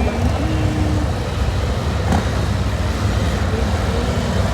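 Motor vehicle engine running close by, a steady low rumble, with a single short click about two seconds in.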